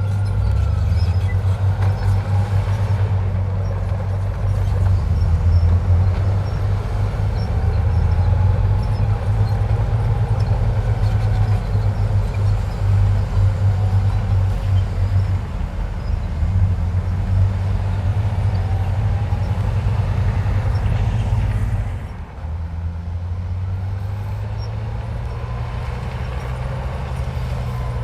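Heavy diesel engine of earthmoving machinery running hard, with a faint whine that drifts up and down. About twenty-two seconds in it briefly drops, then settles to a steadier, slightly quieter running.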